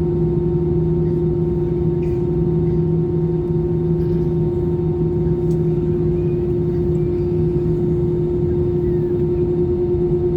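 Airbus A320 jet engines heard inside the passenger cabin: a steady drone with a constant mid-pitched tone and a lower hum over an even rushing noise.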